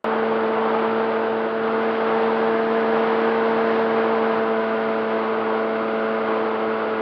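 RC model plane's motor and propeller running with a steady whine over rushing wind noise. It cuts in suddenly at full level.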